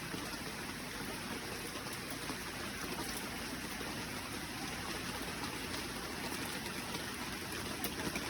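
River water running steadily, an even wash of noise with faint light ticks over it.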